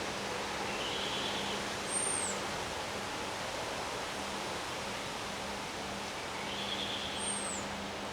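A steady rushing hiss of storm wind and rain, with a songbird calling twice about five seconds apart. Each call is a short warble followed by a high, down-slurred whistle.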